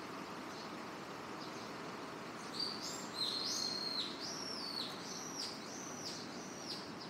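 A bird calling a series of about six short, high notes that step in pitch, starting a few seconds in, over a steady background hum of road traffic.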